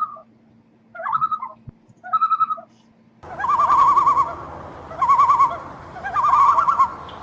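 Birds calling: three short calls a second apart, then, over a louder background hiss, three wavering, trilled calls of about a second each.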